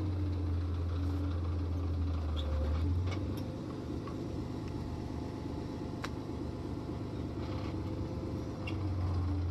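Tractor engine running steadily with a deep hum that eases about three seconds in and comes back up near the end, with a few faint clicks over it.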